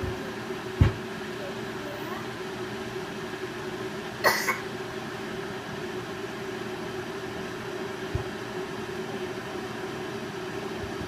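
Aicok electric kettle heating water: a steady rushing noise with a held hum. A low thump comes about a second in, a short bright clink at about four seconds, and a softer thump at about eight seconds.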